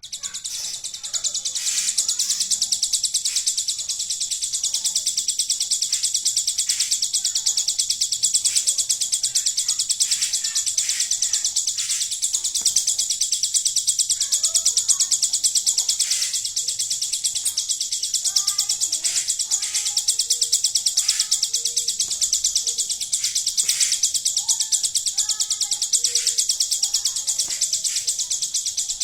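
Ciblek gunung (a prinia) singing a song filled with 'belalang emas' material: a continuous high, very fast buzzing trill, with short lower chirps and twitters scattered through it.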